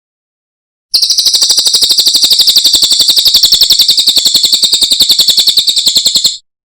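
Cililin songbird singing a fast, even, high-pitched trill of about a dozen notes a second, starting about a second in and stopping abruptly about five seconds later.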